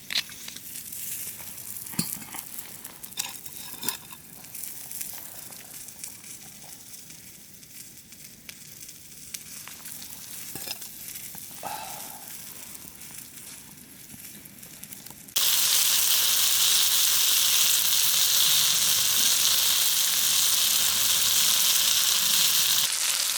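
Quiet scattered clicks and knocks, then, about fifteen seconds in, a loud steady sizzle of food frying in a hot pan starts suddenly.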